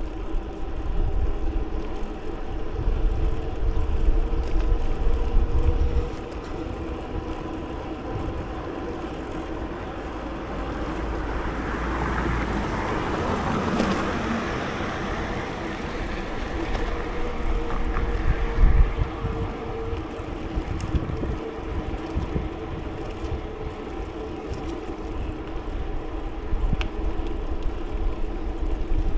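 Wind rumbling on the microphone of a moving bicycle over a steady hum. About halfway through, a vehicle passes, its noise rising and then fading.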